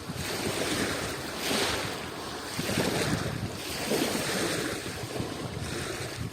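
Adriatic Sea waves washing onto the shore, the wash swelling and easing in repeated surges about every second or so.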